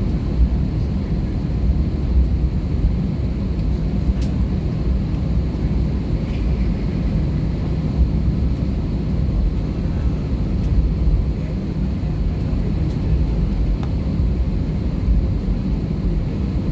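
Steady low rumble inside the cabin of an Airbus A320-214 with CFM56-5B engines: engine and airflow noise heard from a window seat, with no change in pitch or level.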